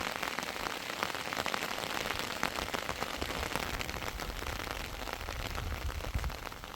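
Heavy rain falling, a dense steady patter of many drops.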